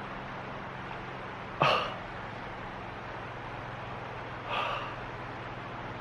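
A man breathing out heavily twice in dismay: a loud, falling sigh about one and a half seconds in, then a softer one a few seconds later, over a steady low hum.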